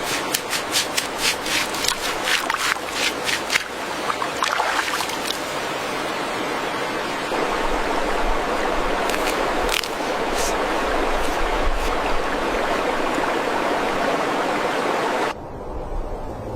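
A steady rushing noise of the kind made by running water. A quick run of sharp clicks or splashes comes over the first four seconds and a few more follow later. It cuts off suddenly near the end.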